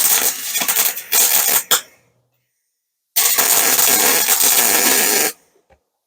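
Electric welding arc on an aluminium bicycle frame, a hissing crackle in several passes that each cut off sharply: a choppy stretch with short bursts in the first two seconds, then a steadier pass of about two seconds.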